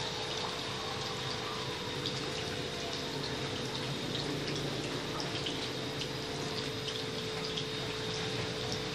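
Refrigeration system running after an R134a charge: a steady hum with refrigerant gurgling and hissing through the lines, and scattered faint ticks.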